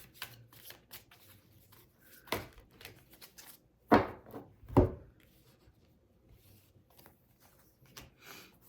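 Tarot cards being handled: soft rustling and a few sharp slaps of cards against a table, one about two seconds in and two louder ones about a second apart near the middle.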